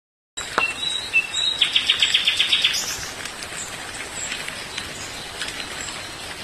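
Several small birds chirping and calling, starting abruptly after a moment of silence, with a rapid trill of about eight notes a second early on, over a faint steady outdoor hiss.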